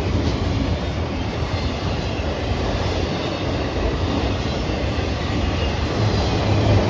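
Freight train cars rolling past, a steady noise of steel wheels on the rails that grows slightly louder near the end.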